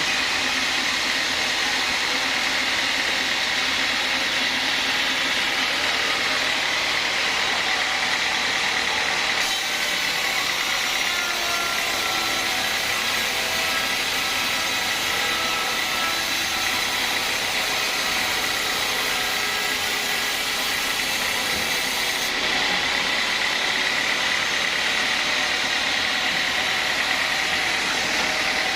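Sawmill band saw running steadily, a constant mechanical drone.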